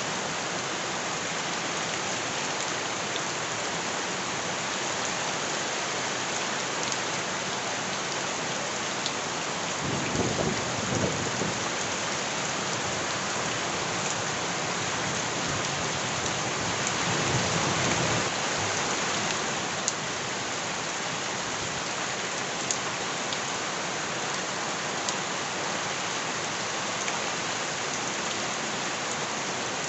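Steady heavy rain falling on surfaces, with scattered sharp drip ticks. Two brief low rumbles swell up, about ten seconds in and again about seventeen seconds in.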